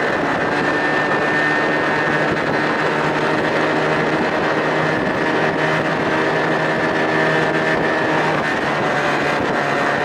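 Johnson 25 hp outboard motor running steadily at cruising speed, pushing a small boat, with wind and water rush over it.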